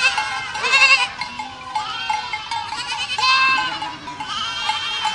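Herd of goats bleating, several overlapping wavering calls from different animals, the loudest near the start, at about a second in and around three seconds in.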